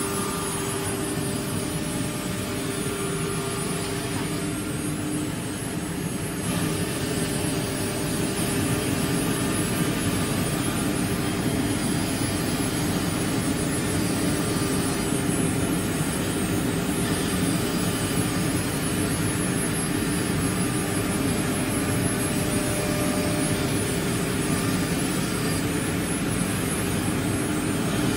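CNC router spindle whining steadily as it machines wood, over a broad rush of cutting noise; it gets a little louder about six seconds in.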